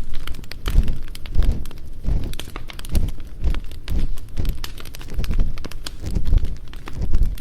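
Campfire crackling and popping, with deep rhythmic rubbing strokes about one and a half times a second from ear cleaning on a binaural dummy-head microphone.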